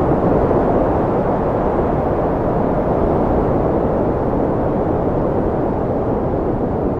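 Wind blowing steadily, a low, even rushing noise.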